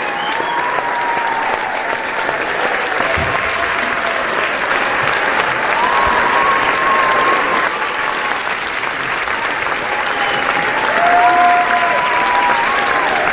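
Large crowd applauding steadily, with long, drawn-out cheers from the audience rising over the clapping now and then.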